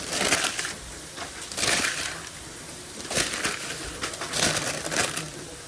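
Four short bursts of rustling, crushing noise from burger assembly work in a food-truck kitchen, a second or so apart.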